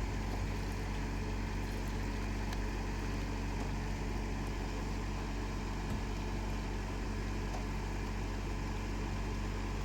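A vehicle engine running steadily, a low even hum without changes in pitch.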